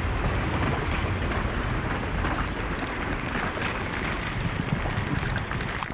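Loud, steady rumbling noise with wind buffeting the microphone.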